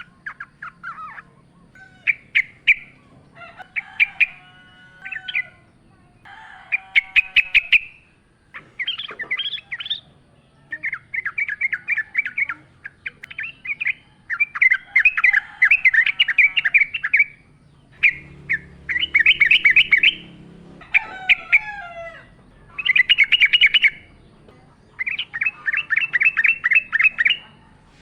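Yellow-vented bulbul singing: a run of bubbly, rapid chattering phrases, each a second or two long, repeated with short pauses.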